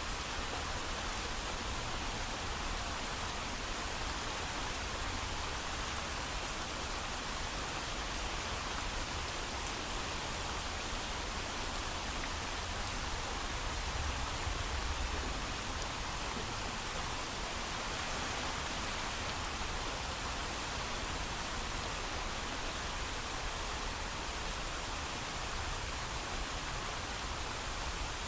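Heavy, steady rain falling, an even continuous hiss of many drops with no thunder.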